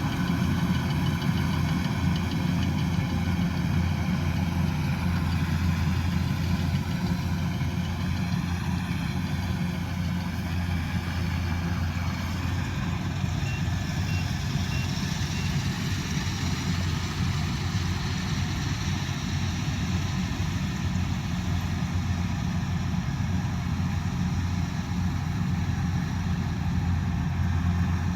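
Kubota combine harvester's diesel engine running at a steady speed, a constant low hum with no revving. About halfway through, four faint short high beeps sound.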